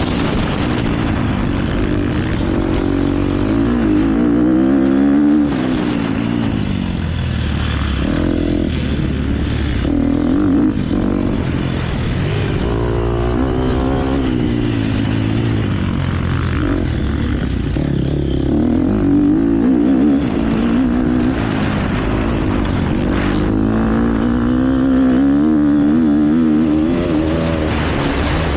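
KTM motocross bike's engine revving hard and easing off again and again as the throttle is rolled on and off and gears change, its pitch rising and falling every few seconds. Heard on board through a GoPro, with steady wind and rush noise underneath.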